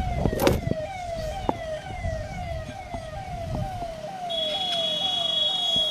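An electronic siren repeats a short falling tone about twice a second, over low wind rumble on the microphone. About four seconds in the rumble drops away and a high steady electronic tone starts.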